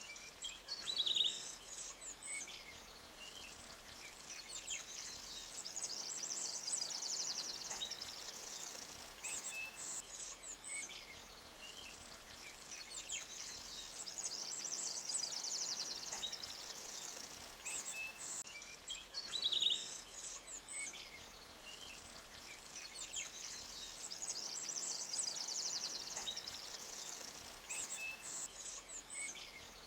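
Forest creek ambience: a small stream flowing steadily over rocks, with birds chirping and high, fast insect-like trills over it. The same bursts of bird calls come back about every nine seconds.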